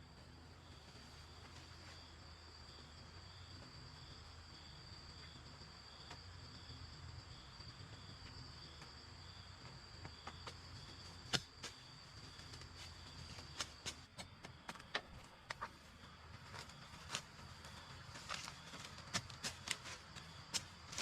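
Insects trilling steadily with a high, even buzz and a fainter pulsing chirp beneath it. From about halfway through there are scattered sharp clicks and taps.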